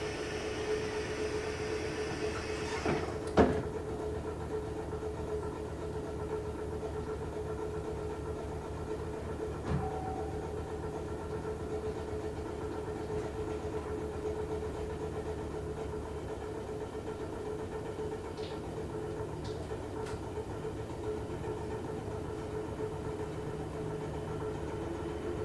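Electric multiple-unit train at a station: a hiss that ends in a sharp clunk about three seconds in, then a steady electrical hum with one held tone.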